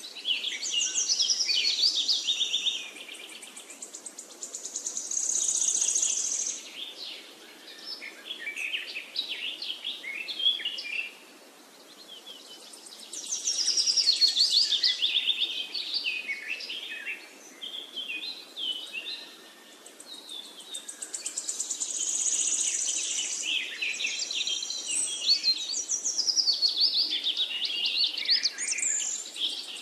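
Birds singing: many high chirps and rapid trills in overlapping phrases, swelling and fading every few seconds, over a steady background hiss.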